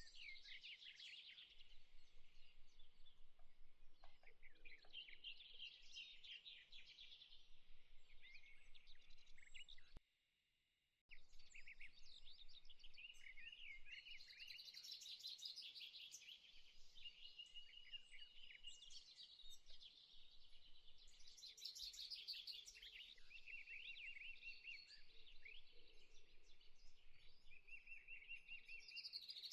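Faint birdsong: many small birds chirping and trilling over one another, cutting out completely for about a second some ten seconds in.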